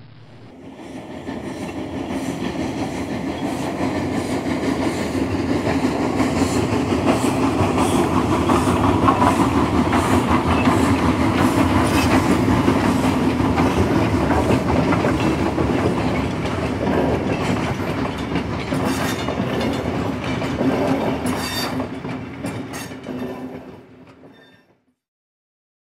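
Train passing with a rumbling clatter of wheels on rails and a steady low hum underneath; it swells up, is loudest around the middle, and fades out shortly before the end.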